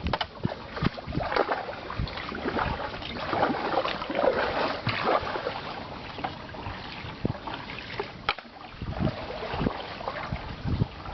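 Kayak paddling: the paddle blades dip and splash in the water, heaviest in the first half, with scattered sharp knocks and clicks.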